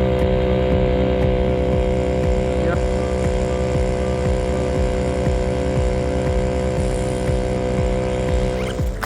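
A motor engine running at a steady speed, with an even, unchanging pitch that cuts off at the very end.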